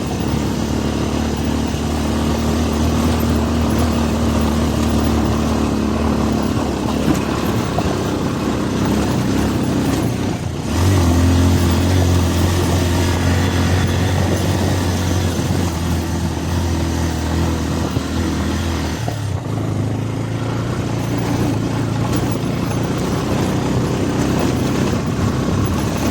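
Motorcycle engine running steadily on the move, with wind and road noise over it. The engine note steps up and gets louder about eleven seconds in, then drops back briefly about nineteen seconds in.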